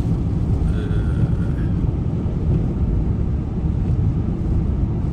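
Steady low rumble of a vehicle on the move, heard from inside the cabin: engine and tyre noise on the road.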